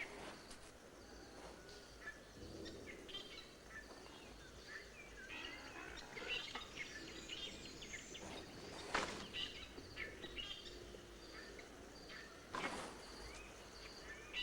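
Forest ambience: many small birds chirping and calling over a faint, steady insect chirr, with two louder sharp sounds about nine and twelve and a half seconds in.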